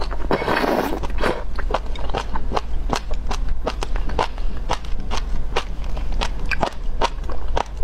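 A strip of jellyfish in chili oil sauce slurped into the mouth, then chewed with a steady run of crisp, rubbery crunches, about three a second, close to the microphone.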